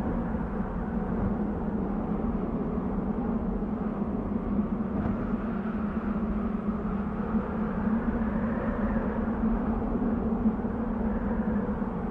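Desert wind blowing steadily: a low, even rush that swells slightly a little after the middle.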